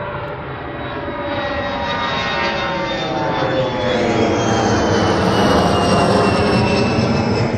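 Airplane passing close, its engine noise swelling steadily louder to a peak near the end, with whining tones that slowly fall in pitch as it goes by.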